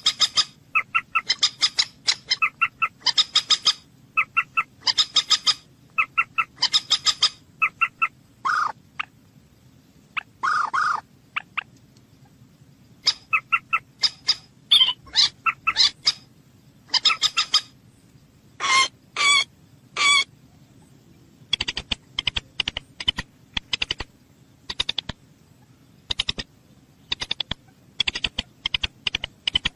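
Common moorhen calling repeatedly: runs of short, harsh notes, a few longer, lower calls near the middle, and a quick series of sharp clicking notes in the last third.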